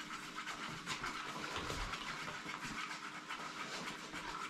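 Glue-based slime being stirred in a cup as it thickens into slime: a continuous scratchy, swishing scrape.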